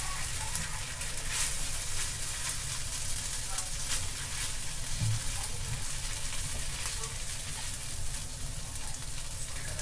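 Fried noodles and cabbage sizzling steadily in a hot frying pan on a gas stove as they are lifted out with chopsticks, with faint crackles through the hiss.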